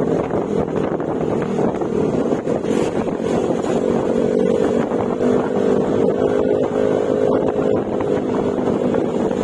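Yamaha Mio Gravis scooter's 125 cc single-cylinder engine running at a steady cruise through an aftermarket Akrapovic exhaust with silencer, its pitch lifting slightly about four seconds in, with wind rushing over the microphone.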